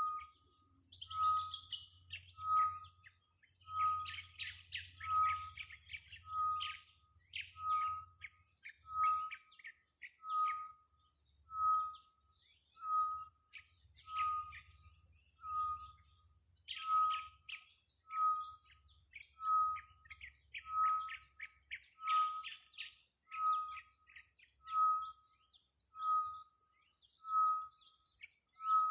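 Birds calling: one bird repeats a single short whistled note at an even pace, a little over once a second, while others chirp and trill rapidly at a higher pitch.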